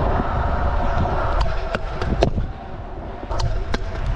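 Stunt scooter wheels rolling on skatepark concrete, with a series of sharp clacks and knocks from the scooter hitting the surface and obstacles.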